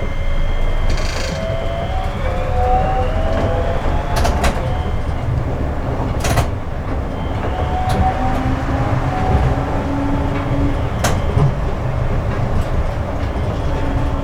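Seibu 8500-series Leo Liner rubber-tyred people-mover running, its Hitachi IGBT-VVVF inverter whining in several tones that shift in pitch over a steady low rumble. Several sharp knocks cut through the run.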